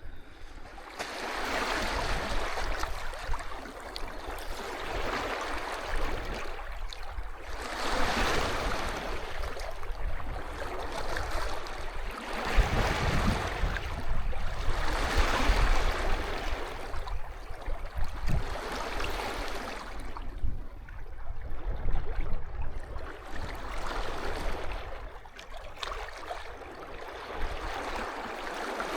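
Sea waves washing up onto the beach, the surf swelling and fading in repeated surges every few seconds.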